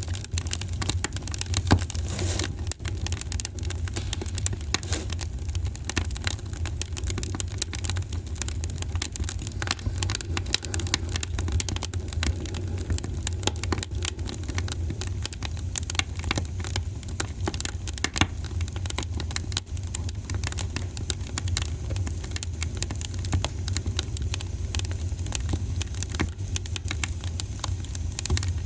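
Wood fire in a fireplace crackling, with dense sharp pops and snaps over a low steady rumble and one louder pop about two seconds in.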